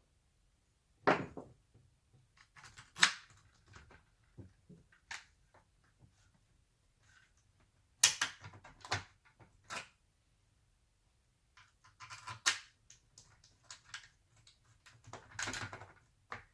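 Irregular clicks, knocks and clatter of parts being handled during hand assembly, with a few sharper knocks standing out.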